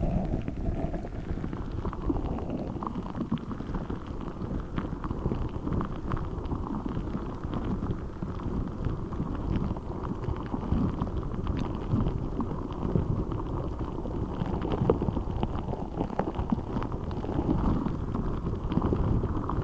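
A giant spiky orbeez ball, a rubber ball filled with water beads, being handled and squished. It makes a steady run of rubbing and squishing sounds dotted with small clicks.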